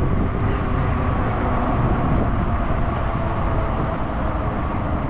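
Steady wind rushing over a bike-mounted microphone while riding an e-bike on the road, with a faint steady hum underneath.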